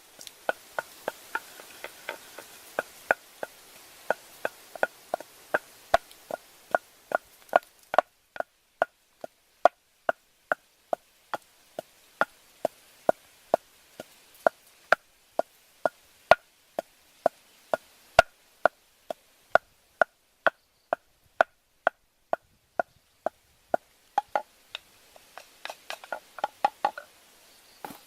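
Chopping on a wooden board: a blade strikes about twice a second in a steady rhythm, each blow with a short ringing knock, quickening into a rapid run of strokes near the end.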